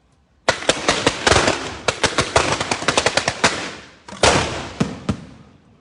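Cart-mounted fireworks going off at close range: a rapid, dense volley of loud bangs starting about half a second in, a brief pause just before four seconds, then another burst and a few last bangs that die away.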